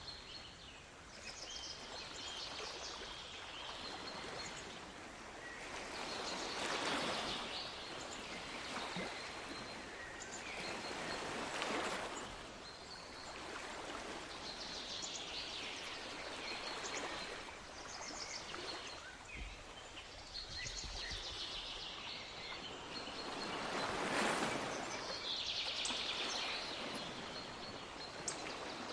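Sea waves washing in and drawing back in slow swells, loudest three times, with birds chirping and calling over them.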